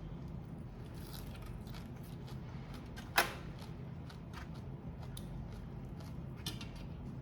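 Scattered small clicks and crackles of grilled prawn and crab shells being handled and broken apart while eating, with one sharp crack about three seconds in, over a steady low hum.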